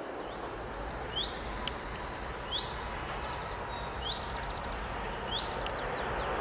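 Small songbirds chirping, with a short rising call repeated four times about every second and a half and quicker high chirps in between, over a steady rushing background noise.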